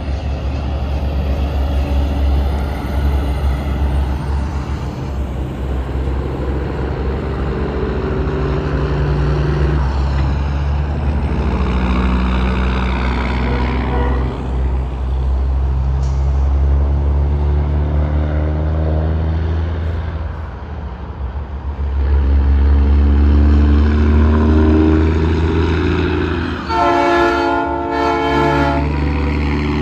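Heavy trucks passing one after another on an interstate, their diesel engines and tyres droning, the engine pitch sliding as each goes by. Near the end a truck's air horn sounds for about two seconds.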